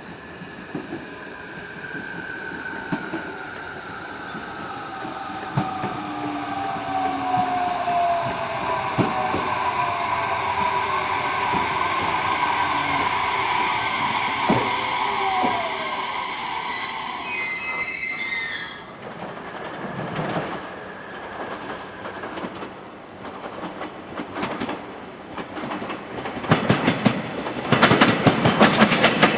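JR Kyushu 817 series electric train (1100 subseries) slowing down. Its inverter whine falls steadily in pitch over rail clatter. A brief high squeal cuts off about two-thirds of the way in, and a louder rattle of wheels on rail builds near the end.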